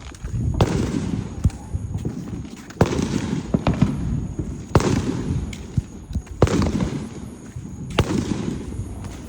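Fireworks going off: about eight sharp bangs, one every second or so, each followed by a rolling, echoing rumble.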